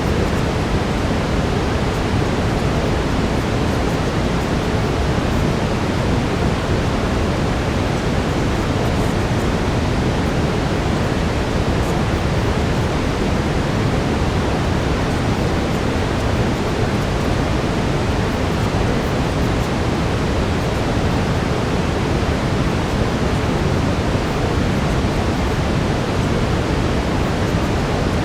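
Steady brown noise, a deep even rushing hiss, heaviest in the low end and unchanging throughout.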